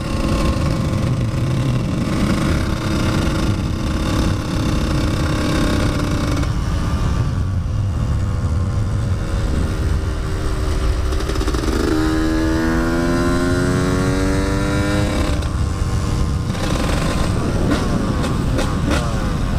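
Dirt bike engine running under way, with a steady low rush of wind noise; its pitch climbs steadily from about twelve to fifteen seconds in as the bike accelerates, then rises and falls quickly near the end.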